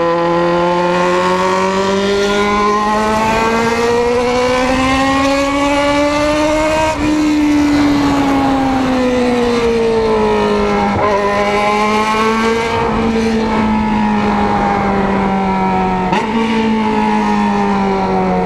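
Yamaha XJ6's inline-four engine through a 4-into-1 open exhaust while riding: the revs climb steadily for about seven seconds, then ease off and hold, with a short break near the middle and a sudden jump in pitch late on.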